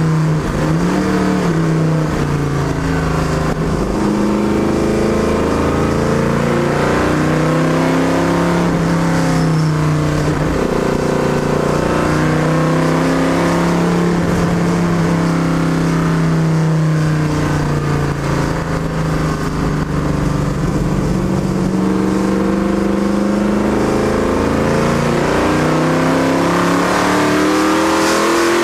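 A 1964 Pontiac GTO road race car's LS3 V8 running hard on track, heard from inside the cockpit. Its engine note climbs and falls again and again as the car accelerates and slows through the corners.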